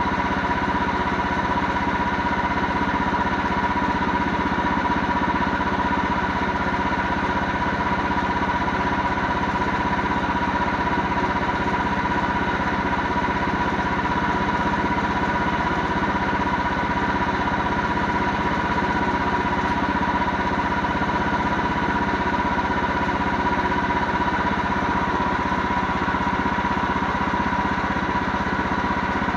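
An engine running steadily at idle, with no change in speed or load.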